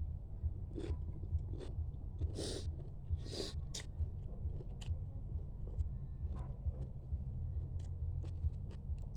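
Close-up chewing and crunching of mud crab, irregular bites and clicks with a couple of louder crunches about two to three seconds in, over a steady low hum.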